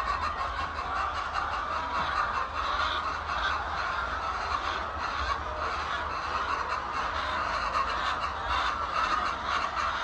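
A flock of chickens clucking and calling together in a dense, continuous chorus of overlapping calls.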